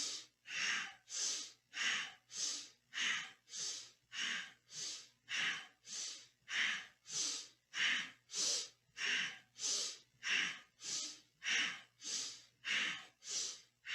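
Deep, forceful breathing through the nose, paced to a seated spinal twist. Inhales and exhales alternate in a steady, even rhythm of close to two strokes a second, about two dozen in all.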